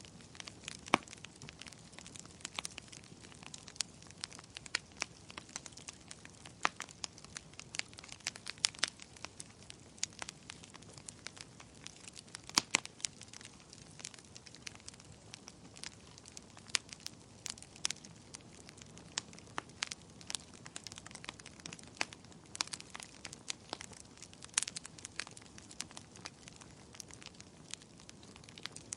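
Wood campfire crackling: irregular sharp pops and snaps, a few a second with some louder ones, over a faint steady hiss.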